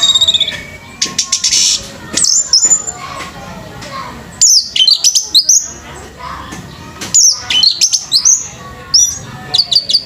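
Orange-headed thrush (anis merah) singing in loud bursts of quick, high whistled and rattling phrases with sliding notes, repeated every couple of seconds.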